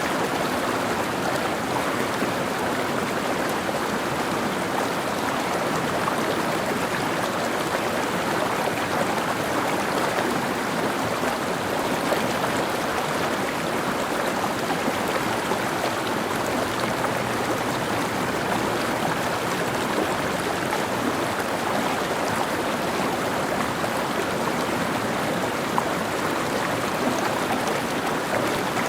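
Mountain stream flowing, a steady rushing babble of water.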